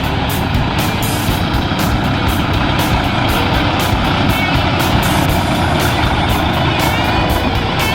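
A heavy truck engine running hard and steady, with music playing over it.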